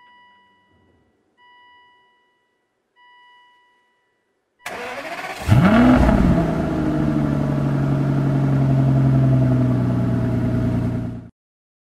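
Three evenly spaced chimes from a 2005 Aston Martin DB9's instrument cluster as the ignition comes on. Then the starter cranks briefly, and the V12 catches with a rise and fall in revs and settles into a steady idle, cut off suddenly shortly before the end.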